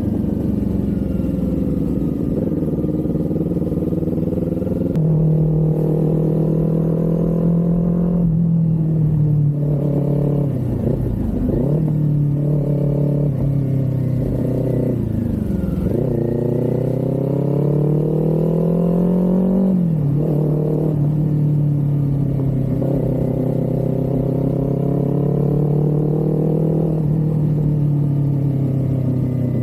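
Kawasaki Z400's parallel-twin engine under way, its pitch climbing as it accelerates and dropping sharply at each gear change, several times over, with a couple of quick dips and rises in revs between.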